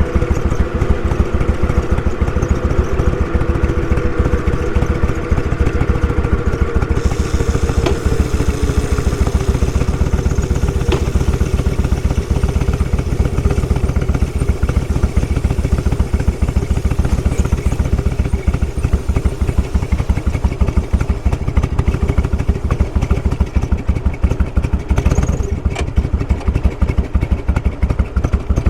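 Motorcycle engine running at low speed with a steady, even beat of exhaust pulses. A whine eases down in pitch over the first several seconds.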